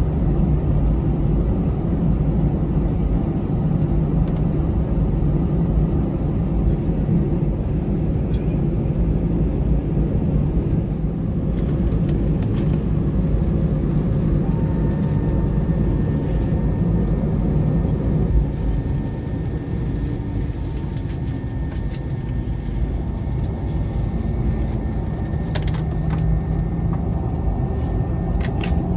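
Cabin noise inside an Airbus A320 taxiing after landing: a steady low rumble from the engines at idle and the wheels on the taxiway. About halfway through a faint steady whine joins in, and a few light clicks come near the end.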